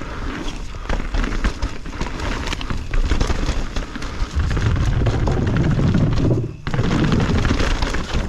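Mountain bike descending a wet, rooty trail, heard through a GoPro action camera: continuous rattling and clattering over roots and rocks under a heavy low rumble of wind and tyre noise. The rumble grows louder about halfway through and drops out for a moment about six and a half seconds in.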